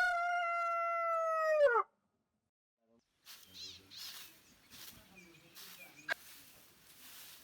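A rooster crowing, ending on a long held note that drops in pitch and stops about two seconds in. After a short silence comes a fainter rural background with a few high chirps and one sharp click.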